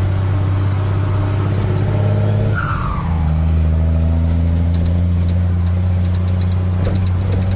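Truck engine running steadily under way, with a low drone. About three seconds in it dips briefly and settles at a lower pitch.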